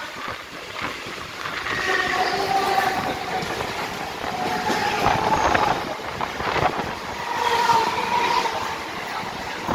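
Mumbai suburban local (EMU) train running past close by on the next track, heard from the open doorway of another moving local: a steady rumble and clatter of wheels and coaches, with a few brief whining tones now and then.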